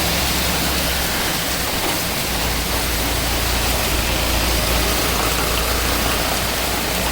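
Heavy rain falling in a steady, even hiss, with a low rumble underneath that grows stronger about two seconds in.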